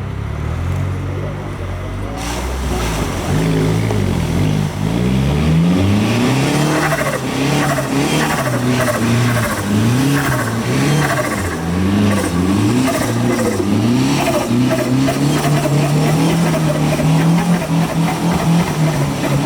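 Off-road 4x4 competition vehicle's engine revving up and down over and over, surges about a second apart, then holding higher revs more steadily near the end.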